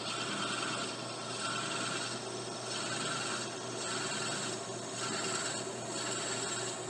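Lathe motor running steadily while a tool rubs and scrapes against the spinning briar in repeated passes, swelling and fading about once a second.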